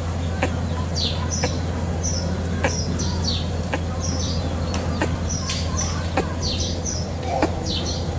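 Small birds chirping over and over in short high notes, with sharp clicks every half second or so and a steady low hum underneath.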